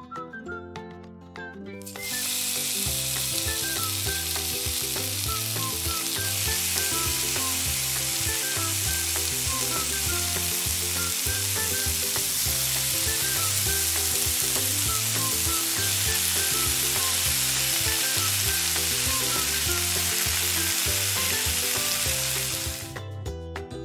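Small whole fish deep-frying in hot oil in a miniature wok: a loud, steady sizzle that starts about two seconds in, as the fish goes into the oil, and stops shortly before the end. Light background music runs underneath.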